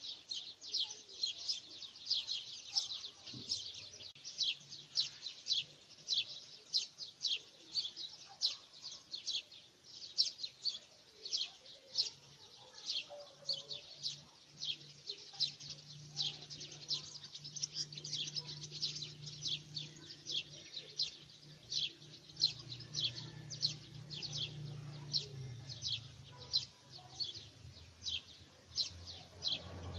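A bird chirping over and over, short high chirps at a steady pace of about two a second.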